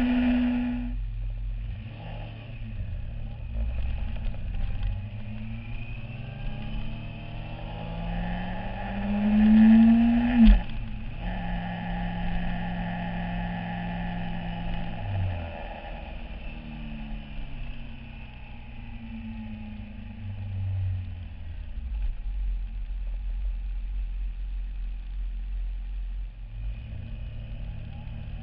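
Yamaha YZF-R6 inline-four engine revving and easing off as the bike rides through traffic, its pitch climbing and falling. The loudest moment is a climb in pitch about ten seconds in that breaks off sharply with a click, followed by a steadier engine note that drops again a few seconds later.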